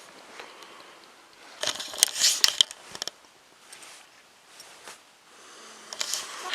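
Rustling and clicking handling noise, with a denser flurry of it about two seconds in and another near the end.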